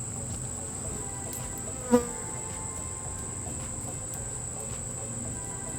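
Honeybees buzzing around the hive over a steady high-pitched insect trill. About two seconds in, one bee buzzes loudly and briefly as it passes close to the microphone.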